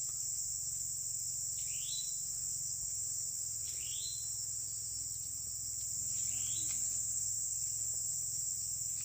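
Steady high-pitched chorus of crickets, with a short rising chirp repeating about every two seconds and a low steady hum underneath.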